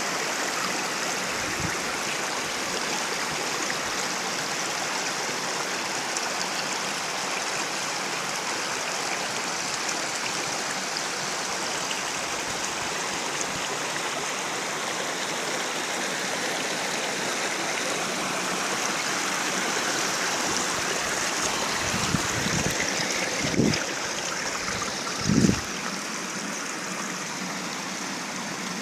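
Waterfall water rushing and splashing steadily over rocks. A few short low thumps come in near the end.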